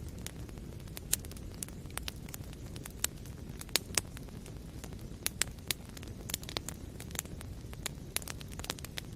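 Wood fire burning in a fireplace: a steady low rumble of flames with frequent irregular sharp crackles and pops, a few louder snaps about four seconds in.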